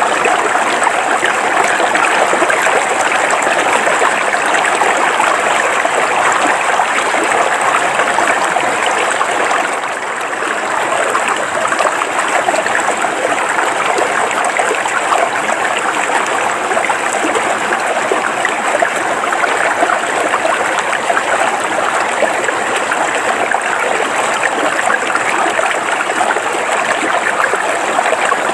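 River water flowing steadily over rocks, an even rushing and burbling with a brief slight dip in loudness about ten seconds in.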